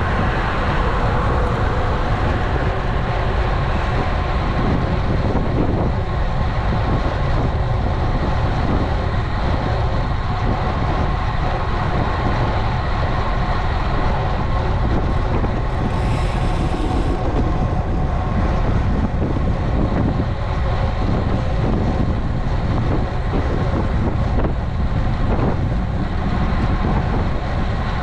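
Steady wind rush and tyre rolling noise from a road bike being ridden, heavy in the low end on the action camera's microphone. There is a short high hiss about sixteen seconds in.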